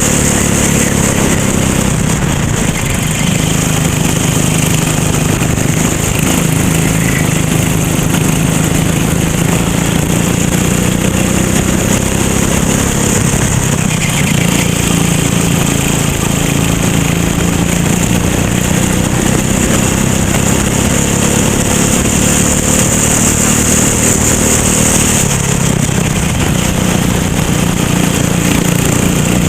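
Racing kart engine running hard through a lap, its pitch rising and falling slowly as it accelerates and backs off.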